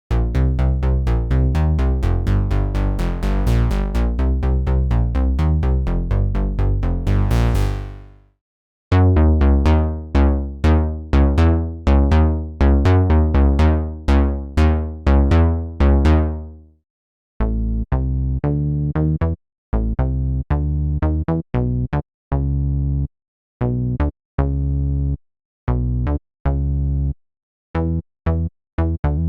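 Synth bass presets from the Omnisphere software synthesizer playing bass lines in three phrases with short breaks between. First comes a dense run of fast notes for about eight seconds, then notes that each fade from bright to dull, then short clipped staccato notes with gaps between them.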